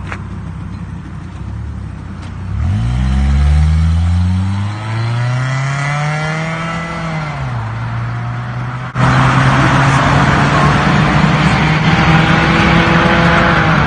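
Honda Accord engine and exhaust: the engine revs up and drops back down, then, after a sudden jump about nine seconds in, runs loud and steady with a raspy exhaust note.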